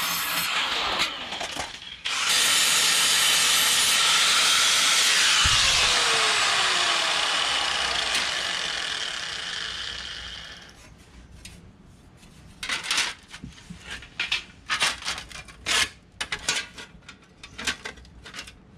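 A power tool deburring stainless-steel parts: it runs steadily at full speed, then its pitch falls as it spins down and stops about ten seconds in. Sharp knocks and clicks of metal parts being handled follow.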